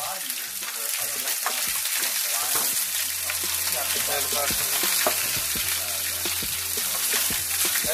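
Food sizzling as it fries in a pot on the stove, a steady hiss with frequent small clicks and clinks of a metal utensil against the pot.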